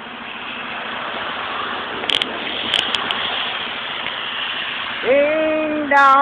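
A steady rushing noise that grows slightly louder, with a few sharp clicks about two to three seconds in. About five seconds in, a voice starts singing, holding long steady notes.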